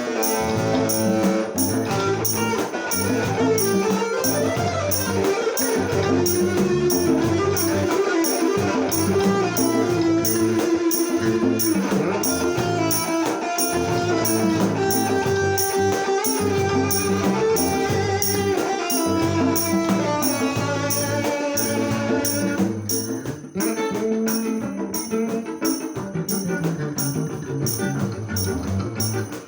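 Instrumental music from the ensemble: plucked guitar over a steady beat, thinning out and getting quieter about 23 seconds in.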